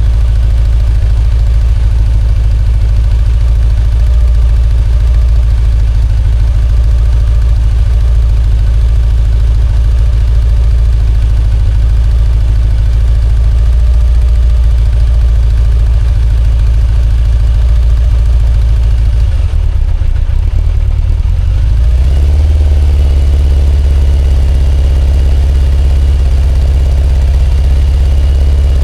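Kawasaki ZZR1100 inline-four motorcycle engine idling steadily; about twenty seconds in its note shifts and settles into a deeper, heavier idle. This engine is the one blowing heavy white smoke.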